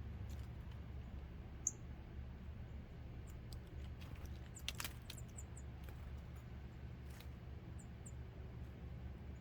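Wild birds at a feeder giving short, high chip calls, one sharp chip about two seconds in and a couple more near the end, with a few clicks around the middle over a steady low hum.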